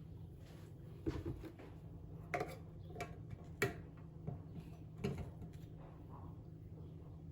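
A handful of light clicks and knocks, as of household objects being handled and set down, over a low steady hum.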